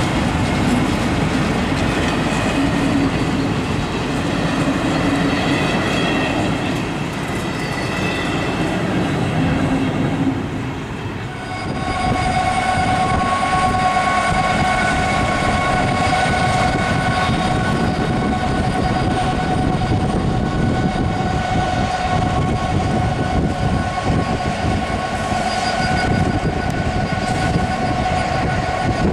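A freight train of tank wagons rolls over a level crossing, its wheels clattering over the rail joints. About 11 seconds in the sound changes to a Class 66 diesel locomotive's two-stroke V12 engine hauling hopper wagons: a steady engine rumble with a held whine over it.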